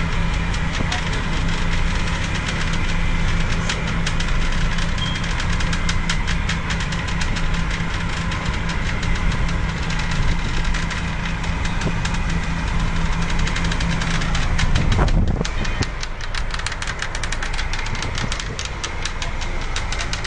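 Strong gusting wind buffeting the microphone as a heavy, steady rumble with constant crackle, over wind-driven waves on the lake.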